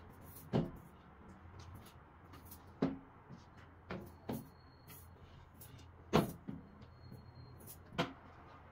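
Six sharp knocks from household objects being handled and set down, spaced irregularly a second or two apart, the loudest about six seconds in.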